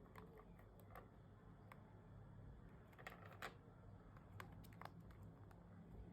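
Near silence with faint, scattered clicks and taps, bunched about three and again about four and a half seconds in.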